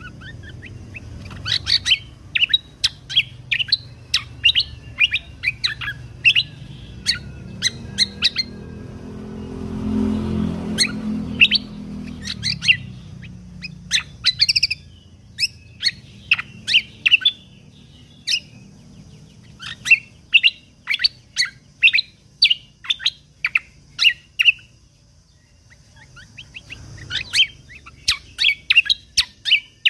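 Cucak kombo (kecial kombok) songbird singing in rapid runs of short, sharp chirps, the piercing 'tembakan' notes, broken by short pauses. A low rumble swells and fades about a third of the way in.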